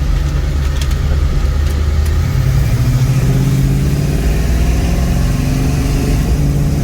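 1963 Chevrolet Nova's engine running while driving, rising in pitch as it accelerates about two to three seconds in, then holding fairly steady.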